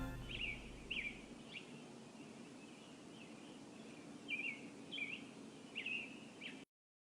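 Faint bird calls: short chirps, a few in the first second and a half and a few more in the second half, over a low steady background. The sound cuts off abruptly near the end.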